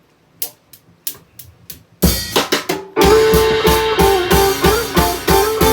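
Pop-rock band intro with electric guitar and drum kit. A few faint ticks come first, then the full band comes in loud and sudden about two seconds in, playing with a steady beat and a held melody line.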